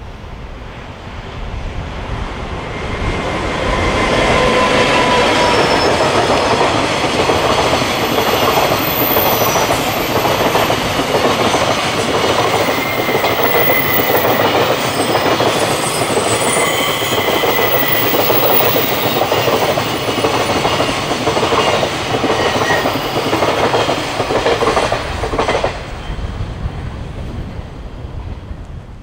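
EF510 electric locomotive hauling a long container freight train past, the wagons' wheels clicking rhythmically over the rail joints, with a few brief high squeals from the wheels. The sound builds over the first few seconds, stays loud, then drops sharply about 25 seconds in as the last wagon passes and fades away.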